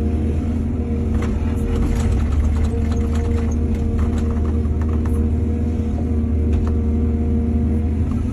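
Excavator's diesel engine running steadily under load. A flurry of small clatters and knocks comes in the middle.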